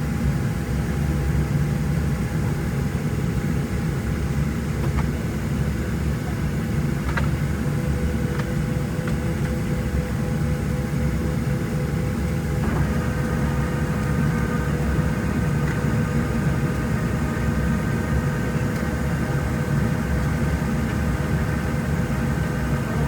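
Steady cabin noise of a Boeing 737-700 on the ground: a low rumble with a few steady whining tones from the engines and air systems. About halfway through, a higher steady whine joins in and holds.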